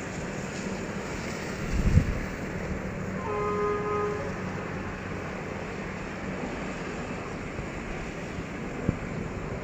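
Diesel-electric locomotive hauling a passenger train, with a steady rumbling drone. A low thump comes about two seconds in, followed by a short horn blast of about a second sounding several tones at once.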